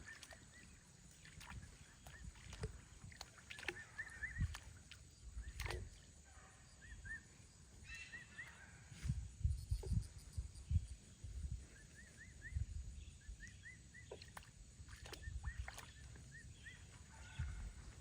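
Irregular water splashing and sloshing as an emu bathes, with short runs of high bird chirps now and then.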